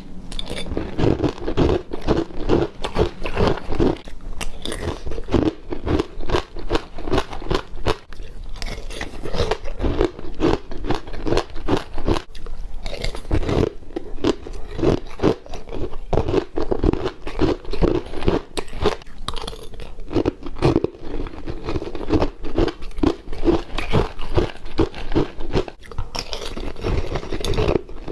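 Close-up crunching and chewing of hard white freezer frost mixed with passion fruit: a continuous run of crisp bites and crunches, several a second, with a few brief lulls.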